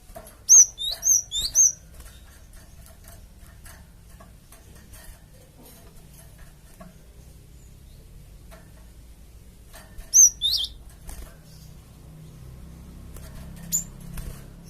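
Cinereous tit (gelatik batu) calling: a quick run of five sharp, high notes at the start, a run of three about ten seconds in, and one more note near the end, with faint ticks in between.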